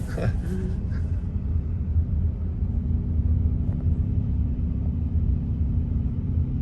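Steady low rumble of a car driving, road and engine noise heard from inside the cabin. A faint steady hum joins it about halfway through.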